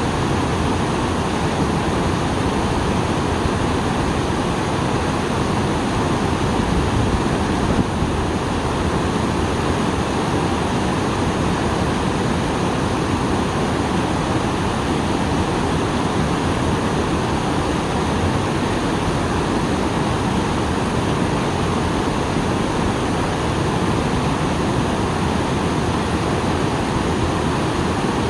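Small waterfall pouring steadily, swollen after rain: a constant, even rush of falling water.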